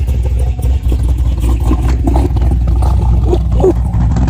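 A 6.3-litre V8 car engine with extractors and a three-inch quad exhaust running at a steady idle, with a deep, even rumble.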